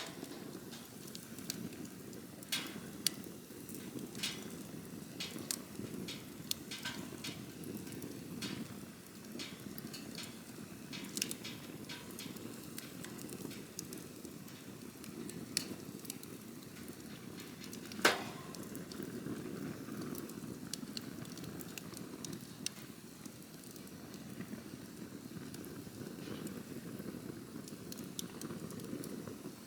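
Wood campfire burning: a steady low rush of flame with scattered sharp crackles and pops. One pop, a little past the middle, is much louder than the rest.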